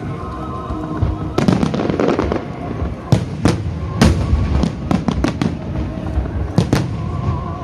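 Wide starmine fireworks: a quick volley of aerial shell bursts, with a stretch of dense crackling about a second and a half in, then sharp reports in fast clusters. Music plays underneath.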